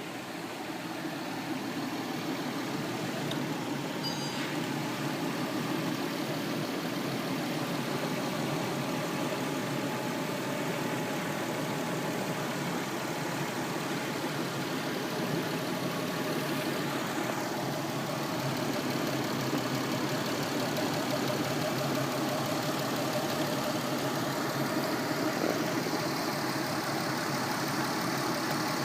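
Peugeot 407 engine idling steadily.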